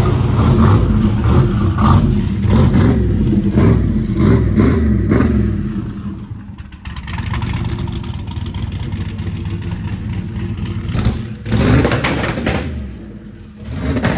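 Turbocharged LS-family V8 engine being revved repeatedly, rising and falling over the first few seconds. It drops back to a steadier run after a brief dip, then gets another short rev near the end.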